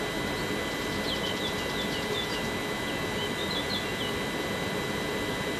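Steady whirr of a TER multiple unit's onboard equipment running while it stands at the platform, with a faint steady high whine. A small bird chirps a quick run of short calls from about one to four seconds in.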